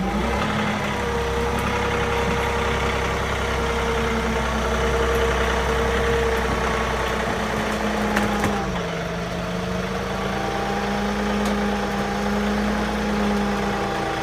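Portable sawmill's engine running steadily. Its pitch rises right at the start and dips a little about eight and a half seconds in.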